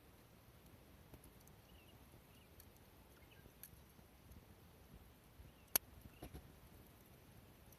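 Faint scattered clicks and ticks, with one sharp snap a little before six seconds in, over a quiet background.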